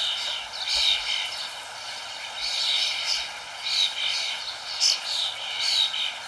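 Birds chirping in short high calls, about one every second, over a steady hiss.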